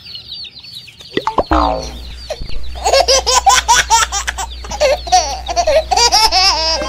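A chick peeping with short falling chirps, then from about three seconds in a baby's giggling laughter in quick loud bursts.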